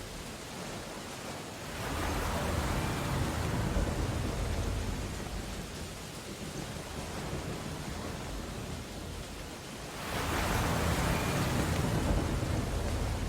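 Steady rain on window glass over a stormy background. Twice the sound swells into a louder, deeper surge lasting a few seconds: about two seconds in, and again near the end.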